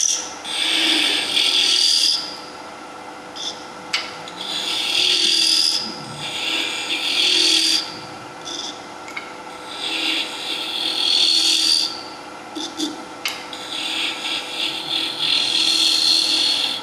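A turning tool cuts a small spinning wooden spindle on a running wood lathe, in about five hissing passes of a couple of seconds each with short pauses between them. The lathe's faint steady hum runs underneath. These cuts are tearing the grain short of the line.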